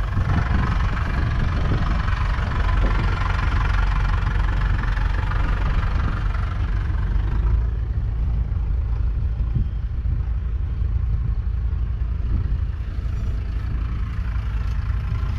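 Mercedes-Benz Unimog U1000's 5.7-litre six-cylinder diesel engine running, fuller and louder for the first half, then easing back to a lower, steadier running about halfway through.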